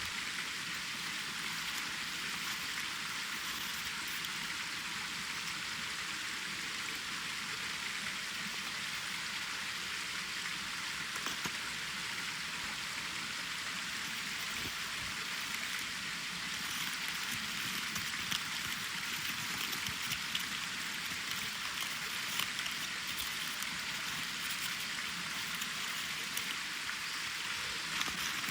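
Wood campfire burning: a steady hiss with scattered small crackles and pops, which come more often in the second half.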